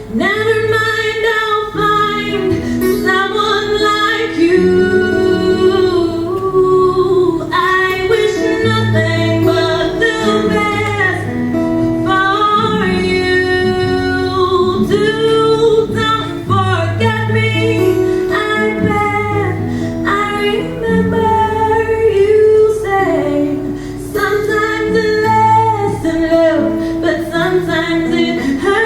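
A woman singing a melody over a steady low instrumental accompaniment, with a plucked guitar among it.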